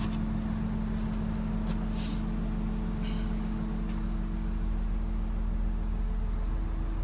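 Volvo EC300E long-reach excavator's diesel engine idling steadily. A few brief faint knocks and rustles come about two and three seconds in, as someone climbs up into the cab.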